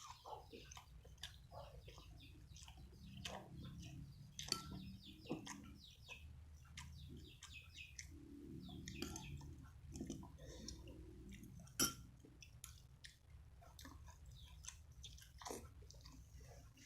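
A person eating close to the microphone: chewing with many small wet mouth clicks and smacks, and a couple of sharper clicks.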